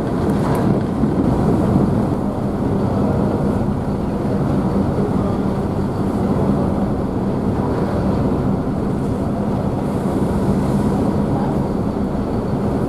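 Car ferry's engines running steadily with a constant low hum, mixed with the rush of wake water and spray churned up behind the stern.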